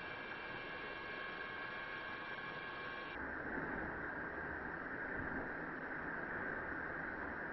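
Steady static-like hiss. Several faint steady tones stop abruptly about three seconds in, after which the hiss carries on, lower in pitch.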